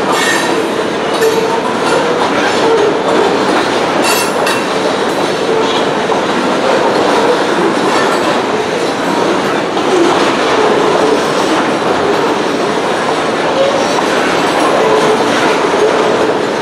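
Loaded covered hopper cars of a freight grain train rolling steadily through a grade crossing, their steel wheels clattering over the rails in a continuous, even rumble.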